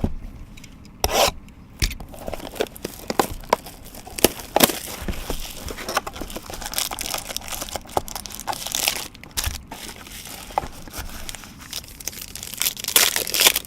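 Plastic wrap and cardboard crinkling, tearing and rustling in a busy run of sharp crackles as a sealed box of baseball trading cards is unwrapped and opened.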